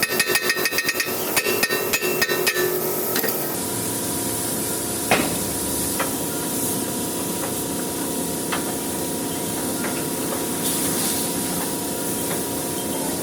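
Rapid metal-on-metal hammer blows with a ringing tone, in two quick bursts over the first three seconds, followed by a steady mechanical hum with a few light, isolated knocks.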